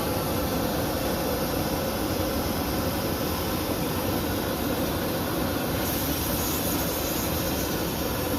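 Steady hiss of steam from a 1/8-scale live-steam locomotive, growing brighter and sharper about six seconds in.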